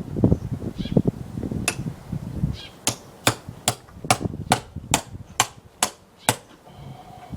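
Hammer driving a wood chisel into a log: a fast run of light taps, then about nine sharper, evenly spaced strikes, two to three a second.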